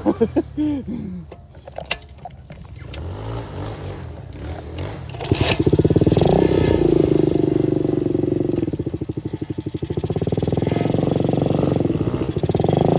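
125cc dirt bike engine running low, then revving up hard about five seconds in. It eases off for a moment and revs up again near the end.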